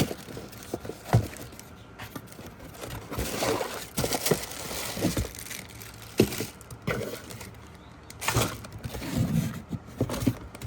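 A parcel being opened and unpacked by hand: packaging crinkling and tearing, with scattered sharp clicks and knocks as parts are handled.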